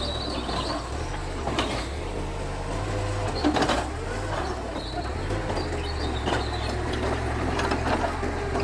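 Mitsubishi bulldozer's diesel engine running steadily, with a few sharp knocks over it, the loudest about three and a half seconds in.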